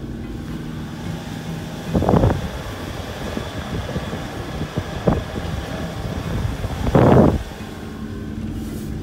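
Vehicle engine running, heard from inside the cab as a steady low hum, with three short noisy bursts about two, five and seven seconds in, the last the loudest.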